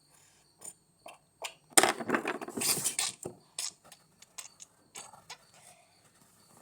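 Small hard objects being handled: scattered clicks and taps, with a louder rattling clatter about two to three seconds in.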